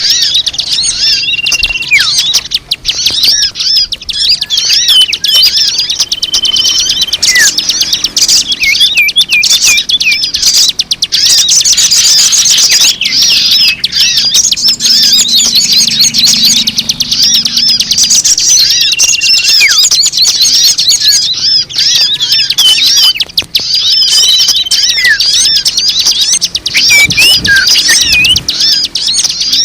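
Bird-lure recording: a dense, loud chorus of many small birds chirping and twittering without a break, with a few short, level whistles standing out now and then.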